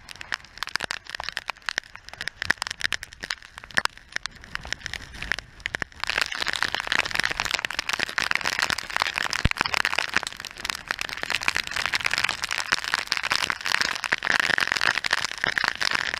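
Rain and sea spray hitting the camera on an open boat in rough weather: a dense crackle of drops, turning into a louder, steady hiss about six seconds in.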